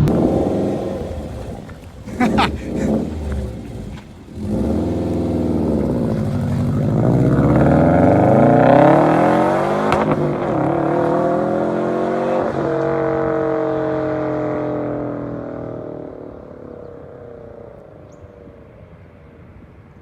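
Sports car accelerating hard toward and past, its engine and exhaust note rising in pitch, then dropping sharply as it passes about ten seconds in, and fading away.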